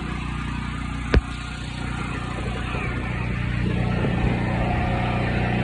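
Steady engine hum of a power generator running, with a sharp click about a second in.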